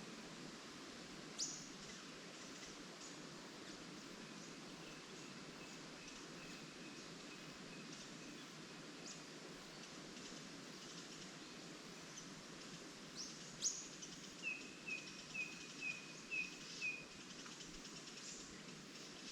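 Songbirds calling over a steady hiss of leaves rustling in the trees. Sharp chirps come about a second in and again past halfway, followed by a quick run of six clear repeated notes, about two a second; a fainter run of the same notes comes earlier.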